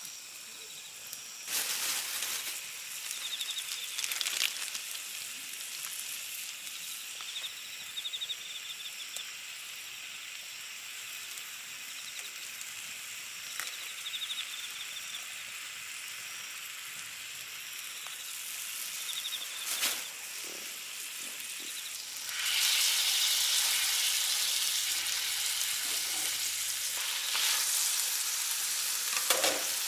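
Meat sizzling on a hot grill pan, the sizzle growing much louder about two-thirds of the way through as more meat goes on. A few light clicks are heard, and autumn insects chirp in short repeated trills.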